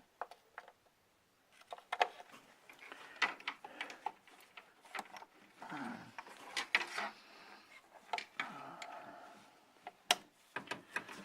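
Scattered clicks, knocks and scrapes of tools and ignition-coil parts being handled in the engine bay while coils are pulled for a swap. There are longer rubbing, rasping stretches about six and eight and a half seconds in.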